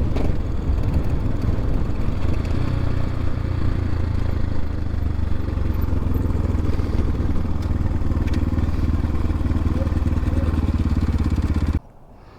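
X-Pro Templar X 250 dirt bike engine running steadily under way. It cuts off suddenly near the end.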